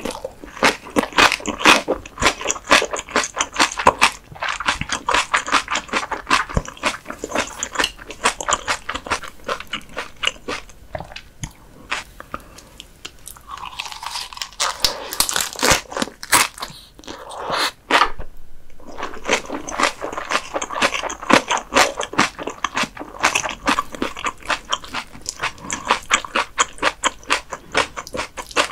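Close-miked crunchy chewing of a lettuce-leaf wrap of whitebait sashimi and vegetable salad, with rapid crisp crunches. The crunching eases briefly about halfway, then a fresh bite and crunching start again.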